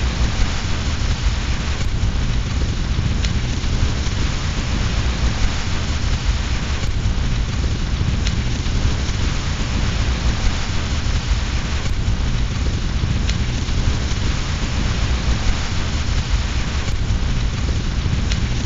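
Steady rain falling together with a fireplace fire crackling, with a deep constant rumble underneath and a sharp pop every few seconds.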